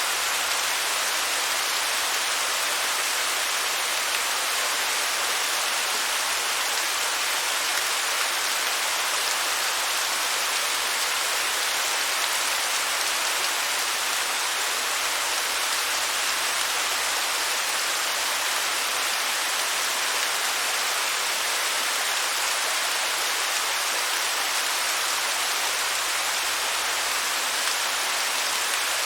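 Waterfall rushing steadily: an even, unbroken hiss of falling water with little low rumble.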